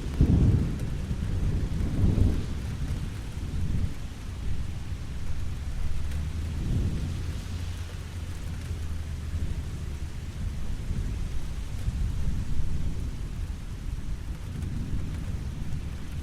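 Steady rain falling, with low rolling rumbles of thunder. The heaviest rumble comes in the first couple of seconds, and weaker ones swell and fade several more times.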